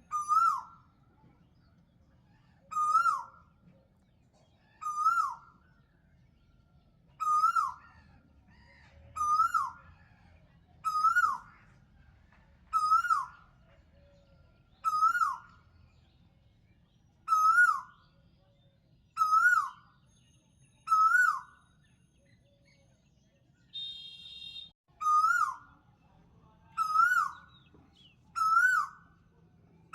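A bird calling over and over: one short note that rises then falls, repeated evenly about every two seconds. There is a short buzzy sound once, a little past the middle.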